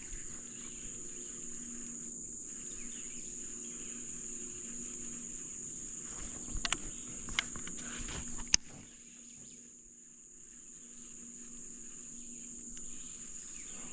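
Steady, high-pitched buzzing of an insect chorus, with a few sharp clicks about halfway through.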